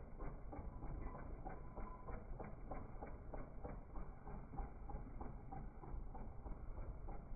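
A run of light, sharp metal clicks, about three or four a second, from hand tools being worked on metal parts, over a low background rumble.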